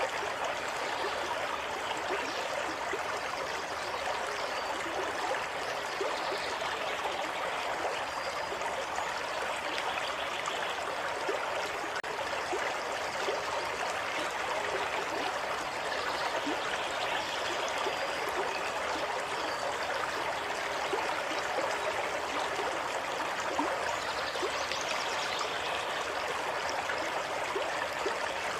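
Water running steadily, the continuous rushing and trickling of a stream, with small bright splashes and gurgles on top.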